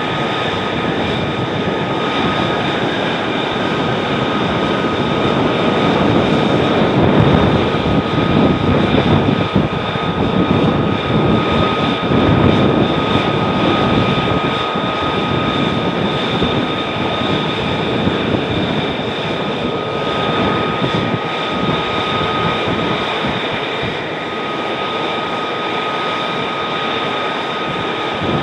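F-35 Lightning II jet engine running, a steady roar with a high constant whine, growing louder about six seconds in and easing back after about thirteen seconds.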